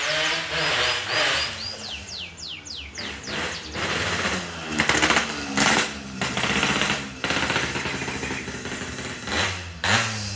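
Yamaha RX-King 135cc single-cylinder two-stroke motorcycle engine with a loud aftermarket boban exhaust, revved up and down in repeated blips with a crackling rattle between revs. The loudest revs come about five to six seconds in and again near the end.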